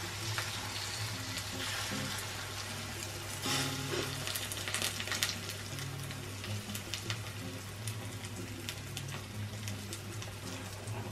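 Beaten egg poured over chips in an oiled frying pan, sizzling and crackling in the hot oil. The crackle is busiest a few seconds in.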